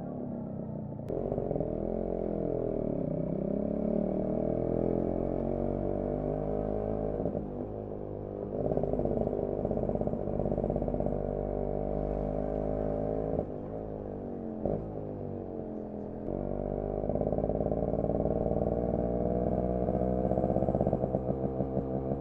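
Yamaha RX 100's single-cylinder two-stroke engine and exhaust while the bike is ridden, its pitch climbing and falling as the throttle opens and closes through the gears. It eases off twice to a lower, quieter note. Near the end it runs with a rapid pulsing.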